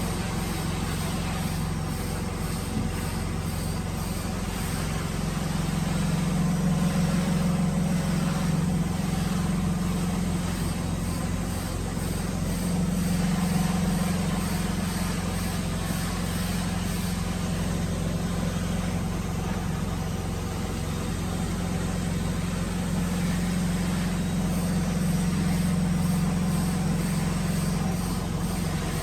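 Woodworking machine running steadily with a low hum that swells and eases every six or seven seconds.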